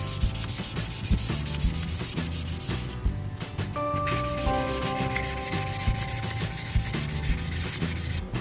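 Sanding, a scratchy rubbing noise made of many short, uneven strokes, over background music with held notes.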